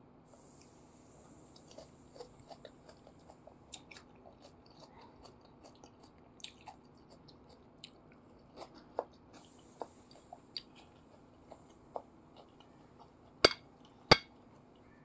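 Close-up eating sounds of chicken satay being chewed: soft, scattered wet clicks and smacks, with a faint high hiss coming and going. Two sharp knocks near the end.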